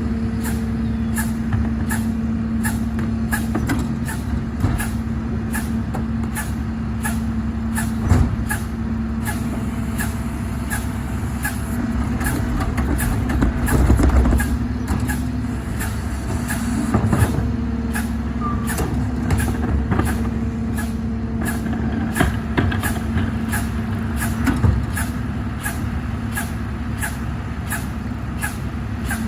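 Garbage truck running with a steady droning hum, a regular clicking about twice a second, and a few louder thumps.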